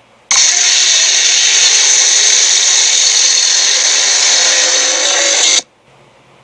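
Cartoon sound effect: a loud, steady, harsh whirring noise, like a power tool, that starts abruptly and runs for about five seconds before cutting off suddenly.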